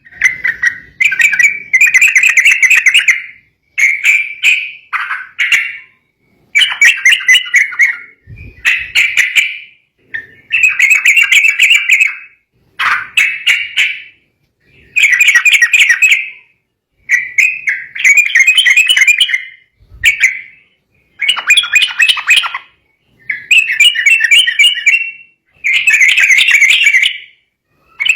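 Yellow-vented bulbul (trucukan) singing loud, bubbly chattering phrases of one to two seconds each, repeated over and over with short pauses between them. This is the agitated song meant to set rival birds singing.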